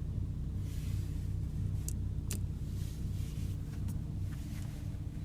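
Porsche Cayenne S's twin-turbo V6 idling steadily, heard as a low hum inside the cabin, with a few light clicks about two seconds in.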